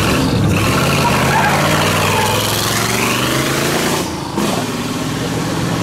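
Car engine running and accelerating as a modified car drives off, with voices in the background.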